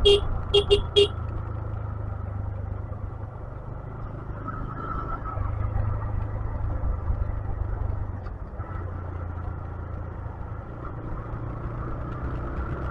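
Four short horn toots in the first second, then a steady low rumble of a motorcycle riding along, engine and road noise.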